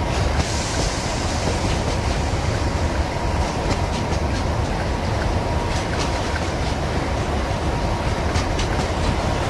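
A freight train of covered bogie wagons rolling past close by: a steady rumble of wheels on rail with clickety-clack over rail joints and scattered sharp clicks, more of them in the second half.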